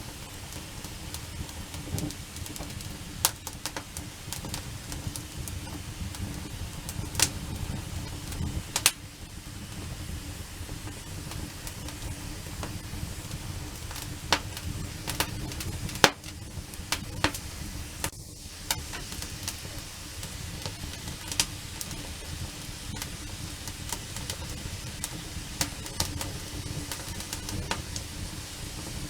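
Wood campfire burning, crackling with a low rushing noise and irregular sharp pops from the burning wood.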